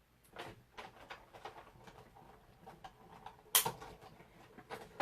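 Card-making handling noises: paper rustling and small clicks of plates and a die being moved, with one sharp click about three and a half seconds in.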